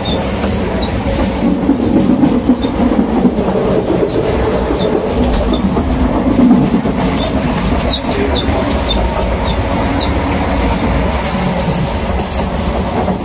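Inside a moving passenger train carriage: a steady low rumble of the running train with wheels clacking over the rails, and scattered small clicks and rattles.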